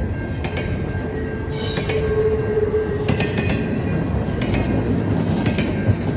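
Train cars rolling past on the CN line: a steady rumble of wheels on rail, with sharp clicks over the joints every second or so. A steady squeal from the wheels runs through it.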